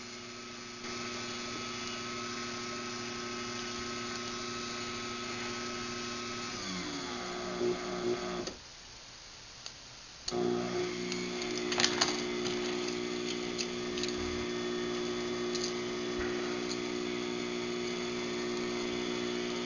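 Craftsman garage door opener motor running with a steady hum and a higher whine for about seven seconds. It then winds down with a falling pitch and stops. After a pause of about two seconds it starts up again and keeps running, with a few clicks along the way.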